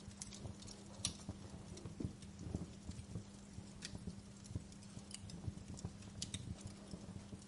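Wood fire burning in a fireplace, with irregular sharp crackles and pops over a low rumble and a steady low hum.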